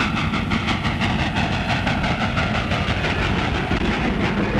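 Train running, its wheels clattering in a quick, even rhythm over the rail joints.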